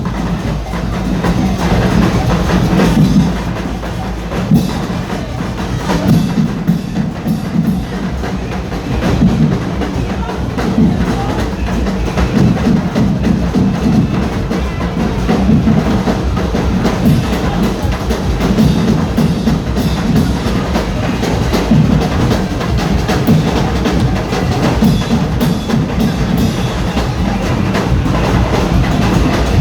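Carnival percussion music: drums and bass drum beating a steady, driving rhythm, with sharp wood-block-like clacks throughout.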